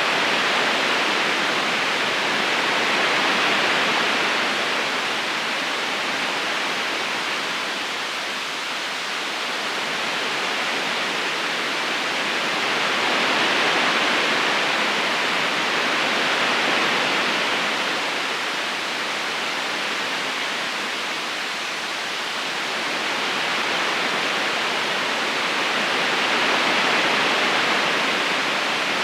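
Flowing river water: a steady, even rushing hiss without distinct splashes, slowly swelling and easing about every ten seconds.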